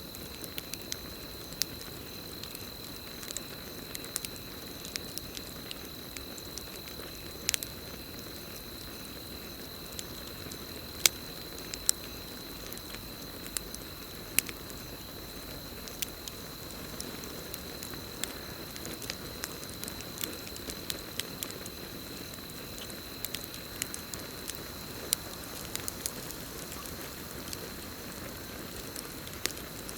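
Campfire burning with irregular sharp crackles and pops over a steady low rush of flame. A steady high-pitched cricket trill runs underneath.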